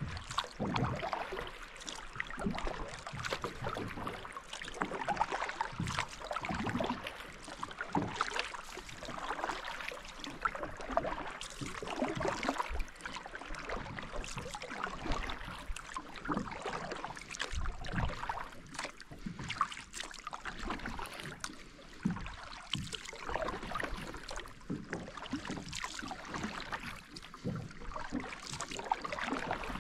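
Kayak being paddled on a river: the paddle dips and splashes in the water in irregular strokes.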